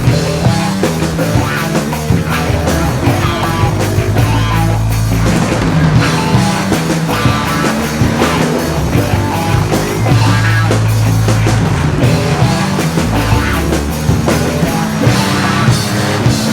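Loud rock music with distorted guitar, bass and drums and a steady driving beat.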